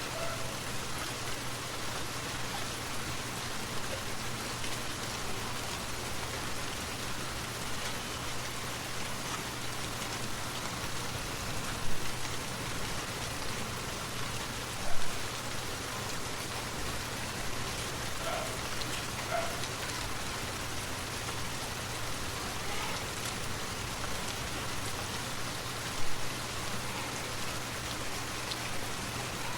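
Steady rain falling, an even hiss of drops, with three brief louder hits spread through it.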